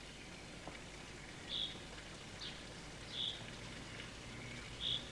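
A small bird gives short, high chirps, about four of them a second or so apart, over a faint outdoor hiss.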